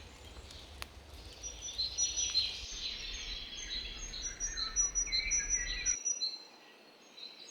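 Songbirds singing in a forest: many short, high chirps and trills from several birds. A low rumble underneath cuts off suddenly about six seconds in.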